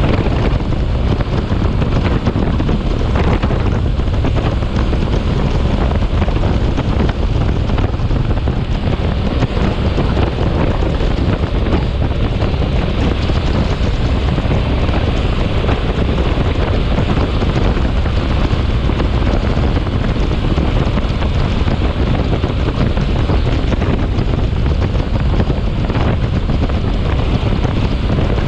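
Storm wind buffeting the microphone: a loud, steady rush heaviest in the low end, with no let-up.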